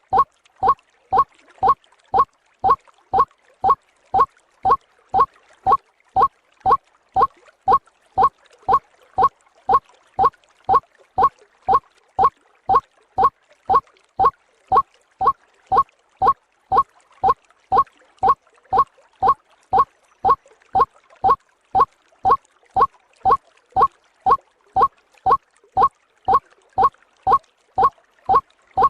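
White-breasted waterhen (ruak-ruak) lure call: a short call repeated about twice a second in a steady, unbroken rhythm at an even loudness.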